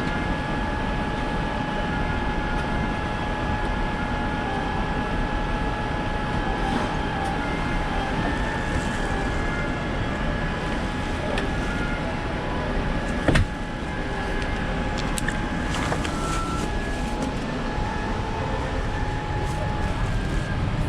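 Steady engine and air noise inside the cabin of a Boeing 787-9 airliner, with a steady whine over it, and a single sharp click about two-thirds of the way through.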